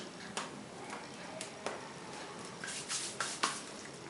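Dry firewood burning in a fireplace as the fire catches, crackling with irregular sharp pops over a low steady hiss, the pops coming more often near the end.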